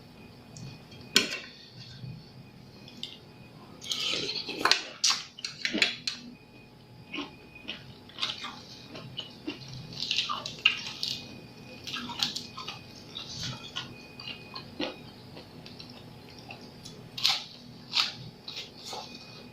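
Close-up eating sounds: wet chewing, lip smacks and slurping while eating seafood papaya salad with squid and blood cockles, in irregular bursts with a few longer slurps.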